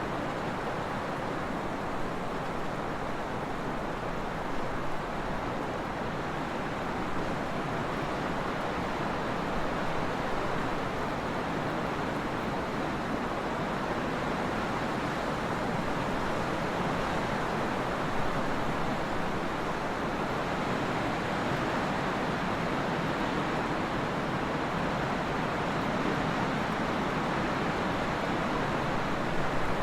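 Steady trade wind blowing, a constant rushing noise that swells slightly now and then.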